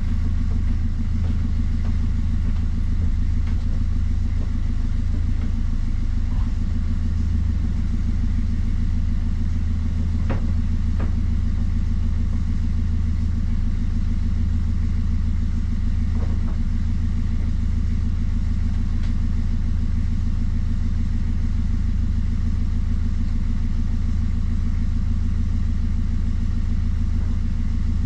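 A hire cruiser's inboard diesel engine running steadily at a constant speed, with a deep, even hum.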